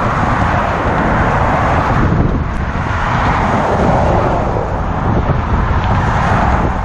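Motor traffic passing on the Golden Gate Bridge roadway, a steady hiss of tyres and engines that swells and fades as vehicles go by, over a low rumble throughout.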